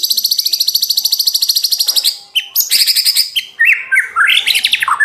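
White-rumped shama (murai batu) singing loudly: a fast machine-gun trill of evenly repeated notes lasting about two seconds, a second shorter trill, then a string of quick rising whistles. The rapid trills are the 'tembakan' (shot-like) bursts that keepers prize in a shama in full song.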